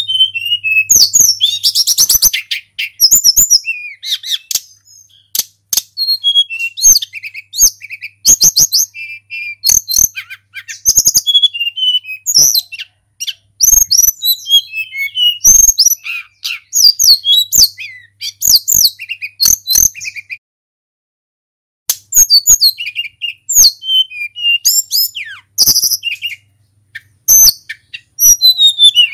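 Tledekan gunung songbird singing a long, fast, chattering song of high chirps and whistles in quick back-to-back phrases, breaking off for about a second and a half past the two-thirds mark before resuming.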